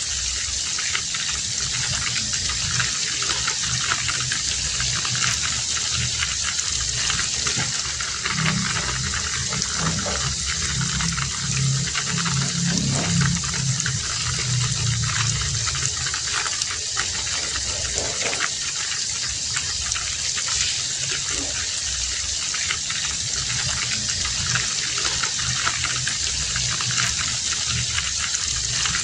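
Heavy rain pouring steadily, a dense even hiss. A low rumble swells for several seconds in the middle.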